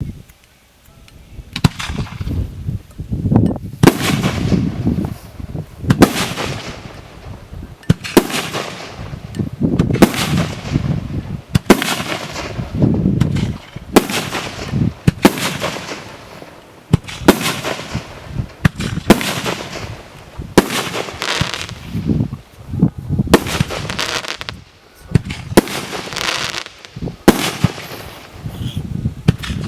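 Consumer fireworks cake (Ba Bum SU 46 B assortment) firing shot after shot. After about a second and a half of quiet it settles into a loud bang every one and a half to two seconds, each followed by a fading rush of noise.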